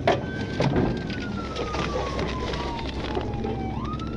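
Police patrol car siren on wail: the tone falls slowly in pitch, then climbs again quickly near the end, over a steady low rumble and some crackle.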